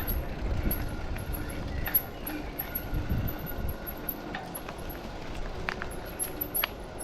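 Footsteps and rustling of a person walking through woodland undergrowth, heard through a rucksack-mounted action camera with a low rumble of handling and movement and scattered twig snaps and crackles.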